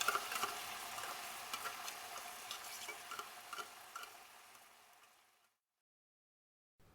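Food sizzling in a frying pan, a fine hiss with small crackling ticks, fading out about four seconds in.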